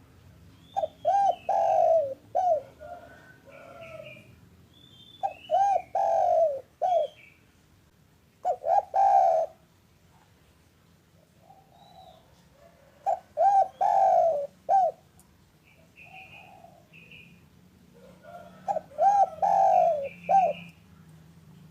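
Spotted dove (derkuku) cooing: five phrases of several low, rounded notes, each a couple of seconds long and spaced a few seconds apart. Faint higher chirps of small birds come between the phrases.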